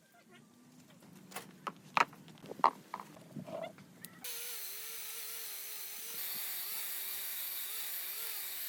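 A few sharp knocks and clicks of metal work, then from about four seconds in a steady machine hum with hiss, its pitch wavering slightly.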